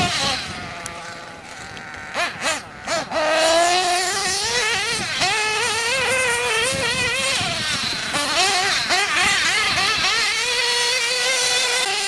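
Nitro-powered RC cars racing, their small engines buzzing and repeatedly rising and falling in pitch with the throttle. There are a few short sharp bursts of revving near the start, and more than one engine is heard at once at times.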